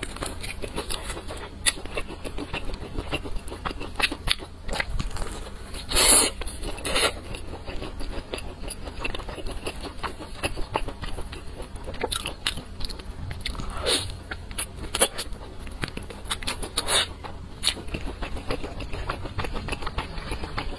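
Close-miked chewing of crisp, sauce-coated fried chicken: a steady run of small crunches and crackles, with a few louder bites about six and seven seconds in.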